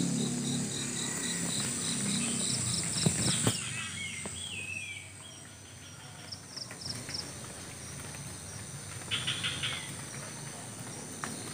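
Village dawn ambience: a steady high drone of crickets and other insects, with regular high chirps and a few bird calls, including a short warbling phrase about four seconds in. A low hum underneath fades out after about three seconds.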